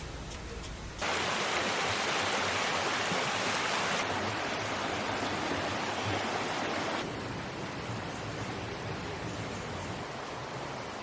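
Steady rush of water noise. It jumps suddenly louder about a second in, then drops back in two steps, at about four and about seven seconds.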